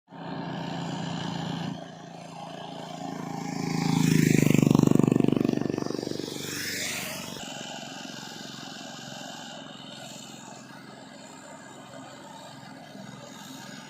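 Tractor engine running, growing loudest about four to six seconds in with a rise and fall in pitch as it passes close, then settling to a lower steady run.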